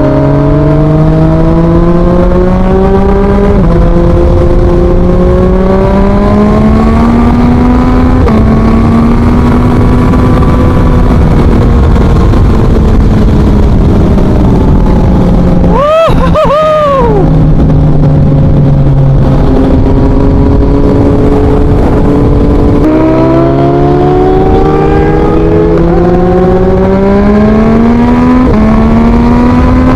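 2023 Yamaha MT-09's 890 cc inline-three engine through a full Akrapovic exhaust, loud, pulling hard with its note climbing in each gear and dropping back at several upshifts. About halfway through there is a quick sharp rise and fall in pitch, like a short throttle blip.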